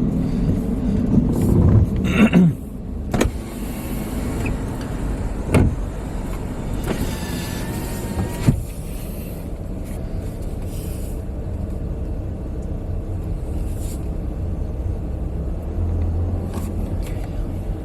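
Car running at low speed, heard from inside the cabin as a steady low rumble, with a few sharp clicks and knocks.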